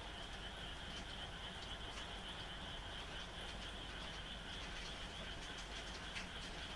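Frogs calling in a continuous chorus over steady rain, a constant high trill with scattered light drop ticks.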